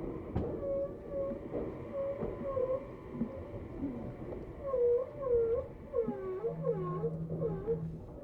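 Tokyu 7700 series train pulling into the platform, its wheels and brakes giving a wavering squeal that dips and rises again and again, growing stronger about halfway through, with a steady low hum joining near the end.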